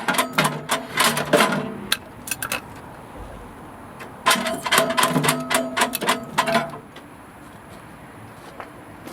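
Metal pieces knocking and clinking together with a short ringing after each strike, in two quick clusters: one fading out about two seconds in, another from about four to seven seconds in.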